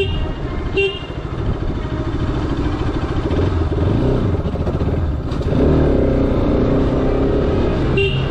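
Bajaj Pulsar RS 200's single-cylinder engine running at low speed through a street, heard from the bike. Its note rises and grows louder about five and a half seconds in as the throttle opens. A brief toot sounds at the very start and again near the end.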